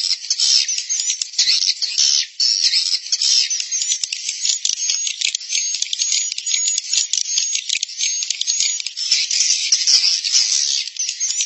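Dense, continuous chatter of a swiftlet colony: rapid high-pitched clicks and short twittering chirps, overlapping without pause. It is a 'suara inap' roosting-call recording, played in swiftlet houses to draw the birds in and keep them roosting.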